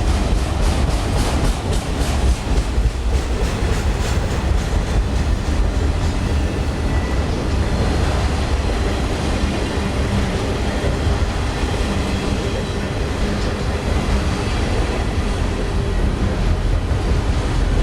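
Freight train rolling past close by: a steady low rumble of the cars, with the wheels clicking over the rail joints in the first few seconds.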